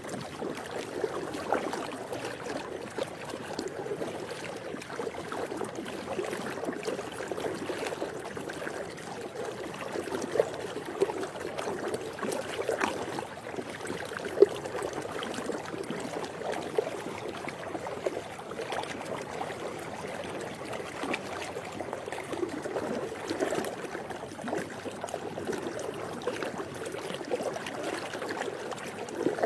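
Swimming pool water lapping steadily, with brief louder splashes now and then, the sharpest about halfway through.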